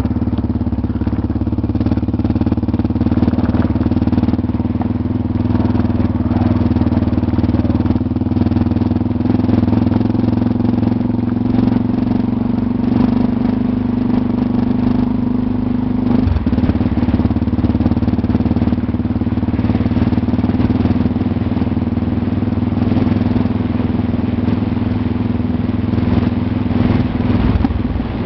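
Motorcycle engine running steadily under way on a dirt road, its note dipping briefly and picking back up about halfway through.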